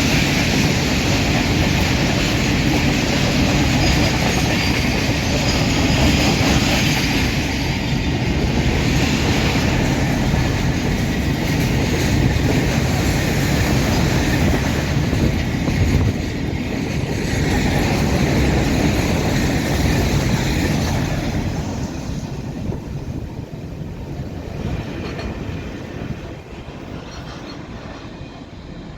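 A train passing at speed, its wheels running on the track with loud rolling noise for about twenty seconds, then fading steadily as it draws away.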